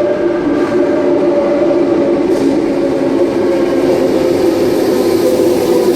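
Sydney Trains Tangara electric train (sets T53 and T74) running along the platform, its motors giving a steady whine that drops slightly in pitch over a rumble of wheels and noise.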